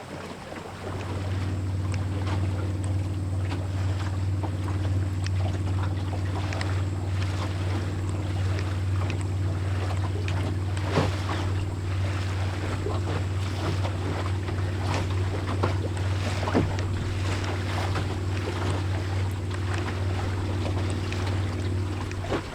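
A steady low hum with overtones, starting suddenly about a second in and stopping suddenly near the end. Under it are wind on the microphone and scattered short splashes of water against a small boat's hull.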